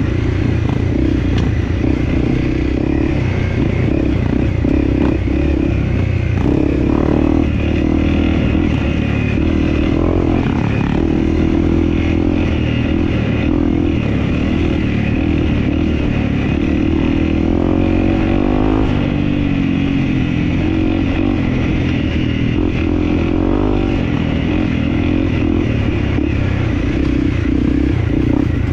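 Dirt bike engine running while being ridden, its revs rising and falling.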